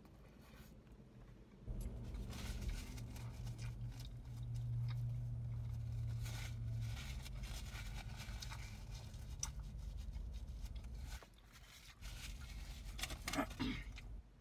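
A burger being chewed close to the microphone, with small wet clicks and crinkles of its paper wrapper. A low steady hum runs under it from about two seconds in until about eleven seconds.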